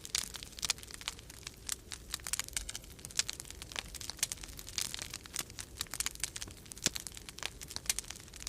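Wood fire in a fireplace crackling with many irregular snaps and occasional louder pops, over a low steady rumble of storm wind.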